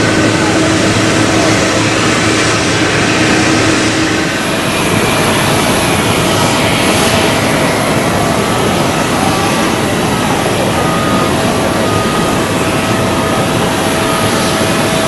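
Jet airliner engines running loud and steady on the runway. About four seconds in the sound changes to a different aircraft, an Airbus A320, with a high thin whine above the engine noise.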